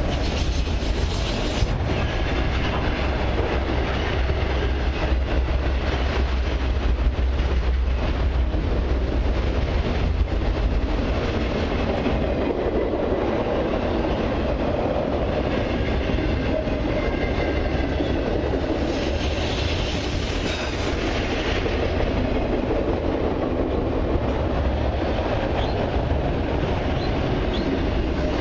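Freight cars of a long CN train rolling steadily past: a continuous rumble of steel wheels on the rails, with clacking and faint wheel squeal.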